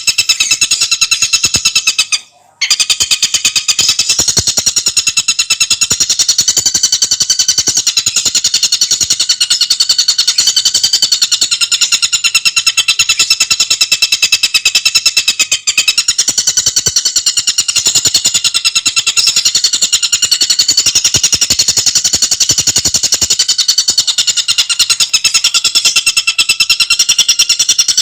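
Tengkek buto bird singing a continuous, very fast rattling trill of rapid pulses, high-pitched with several stacked tones, breaking off briefly about two seconds in.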